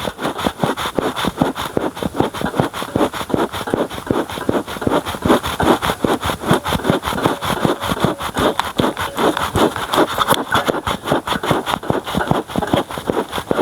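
Bee smoker bellows pumped by hand in quick, steady strokes, each puffing a rush of air through the smouldering plantain leaves and pellets to get the fire going, at about three to four puffs a second.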